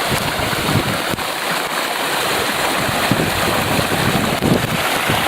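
Fast-flowing floodwater rushing in a violent torrent: a loud, steady rush of water, with uneven low buffeting of wind on the microphone.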